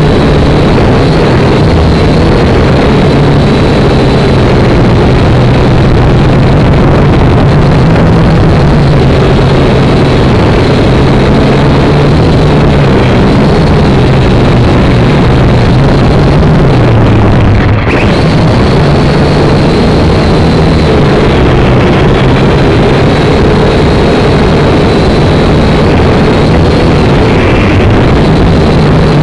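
Syma X5C quadcopter's brushed motors and propellers buzzing loudly in flight, the pitch wavering up and down as the throttle changes, with a brief drop about two-thirds of the way through.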